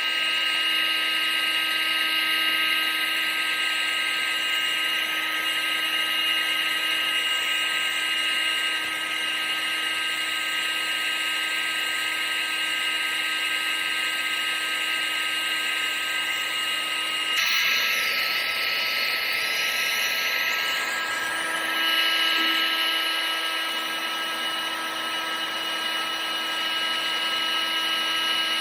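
Vacuum cleaner motor running steadily, a high whine over a rushing hiss. About 17 seconds in, the whine's pitch shifts abruptly and wavers briefly before settling again.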